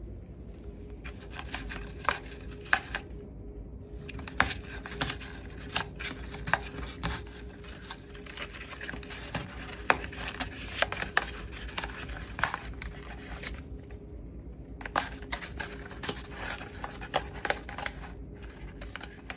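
Moluccan cockatoo chewing and shredding dry material with its beak: a run of irregular crackles and sharp snaps, with a few brief pauses.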